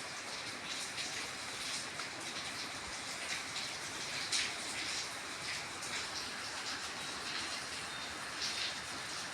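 Steady rain falling: an even hiss with scattered sharper drop sounds.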